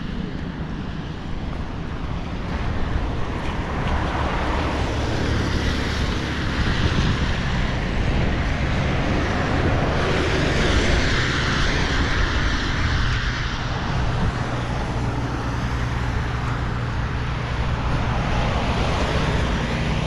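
Street traffic: steady road noise with a vehicle passing louder about ten to thirteen seconds in, over a low rumble of wind on the microphone.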